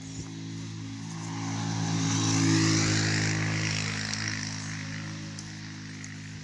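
A motor vehicle passing by, swelling to its loudest about two and a half seconds in and then fading, over a steady low hum.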